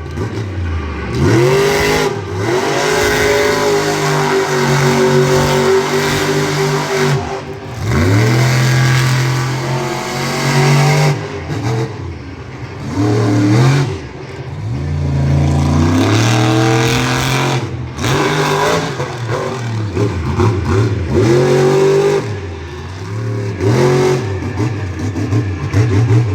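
Monster truck engine revving hard over and over, its pitch climbing with each burst of throttle and dropping off abruptly when the throttle is let go, every two to four seconds.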